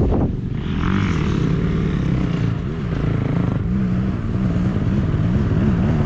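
Motocross bike engine running at low revs, its pitch wobbling up and down with small throttle blips. A quick falling rev comes right at the start.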